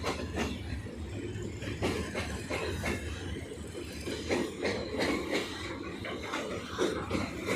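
Train running past, a steady rumble with repeated clacks of wheels over the rail joints.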